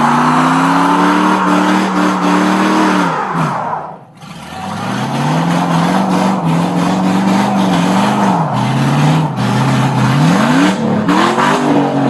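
Pickup truck engine revving hard under full throttle while the truck is blocked in, its wheels spinning in place. The revs fall away sharply about four seconds in, then climb again and rise and fall quickly near the end.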